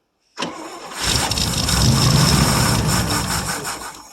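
1959 International B120 pickup's engine cranking, catching about a second in and running for about three seconds on gas poured into the carburetor, then dying away near the end. It runs only when bottle-fed; whether the fuel pump draws anything from the tank is in doubt.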